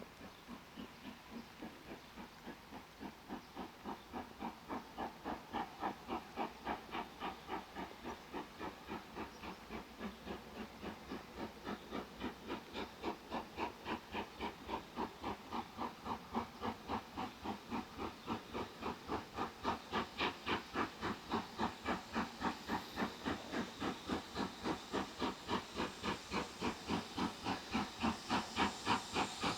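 LMS Jubilee class 45690 Leander's three-cylinder exhaust beat, a steady, even chuffing of roughly three beats a second with a bass roar, working hard on a climb. It grows steadily louder as the locomotive approaches.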